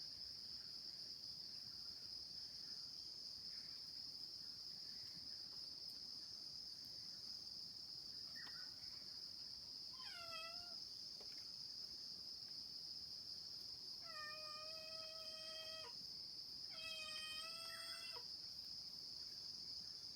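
Steady, high-pitched insect chorus of crickets, with a cat meowing three times in the second half: first a short, falling meow, then two longer, drawn-out ones.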